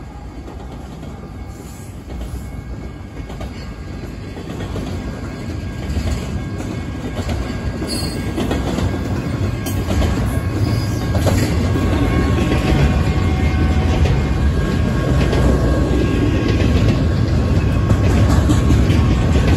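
Double-stack intermodal freight train rolling past close by: steel wheels clattering over the rail with scattered sharp clacks, and the rumble growing steadily louder as the cars go by.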